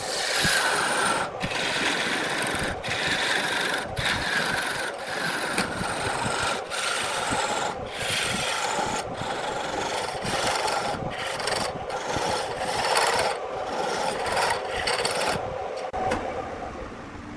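A tool scraping wood with a rasping sound, in repeated stretches broken by short gaps about every second or so. It stops shortly before the end.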